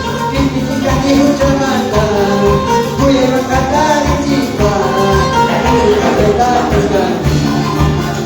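Latin-style worship band music with a steady beat and tambourine or shaker percussion, with a melody line over it.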